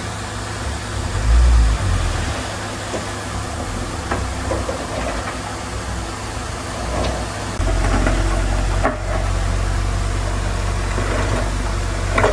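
Diesel engine of heavy earthmoving machinery running steadily, growing louder about two-thirds of the way through. A thump comes about a second and a half in, with a few short knocks after it.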